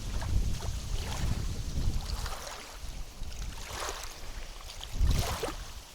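Wind buffeting the microphone with a low rumble, which dies down about two seconds in, followed by water splashing and swishing three times.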